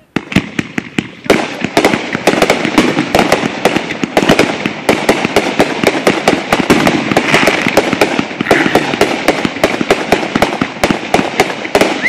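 Fireworks going off in a dense barrage: sharp bangs and crackles, several a second, over a continuous rumble. It starts suddenly just after the beginning.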